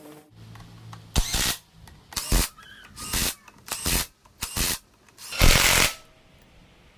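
Workshop compressed-air tool worked in six short blasts in a row, about one a second, the last one the longest.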